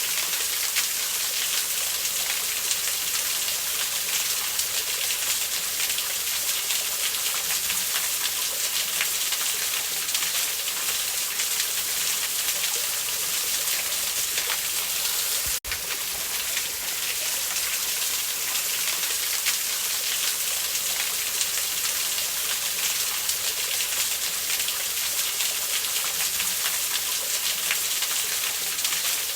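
Steady rushing hiss of a waterfall, with faint scattered crackles of a wood fire. The sound drops out briefly about halfway through.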